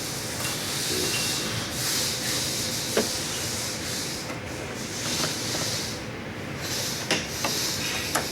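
Welding hiss and crackle in the background, coming and going in stretches of a second or two, with a few sharp clicks from the Mustang's plastic door-panel clips being pried loose.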